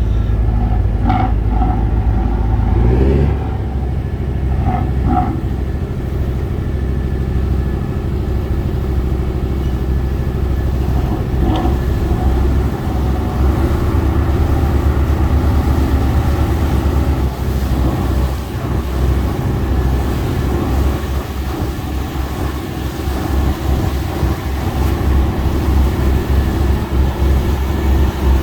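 Tugboat's diesel engine running steadily under load, heard from on board as it pushes a fishing boat against the pier; its low note changes about three seconds in.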